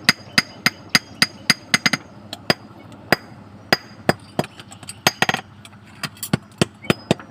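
A blacksmith's hammer striking metal on an anvil, about three sharp ringing blows a second, with a quick flurry of light taps about five seconds in.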